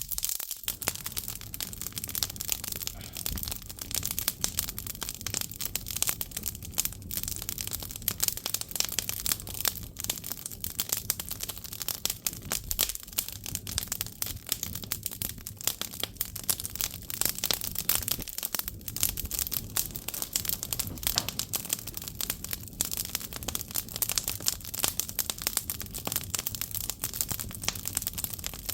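Firewood crackling as it burns in an agungi, a Korean traditional wood-fired firebox: a dense, steady run of small crackles.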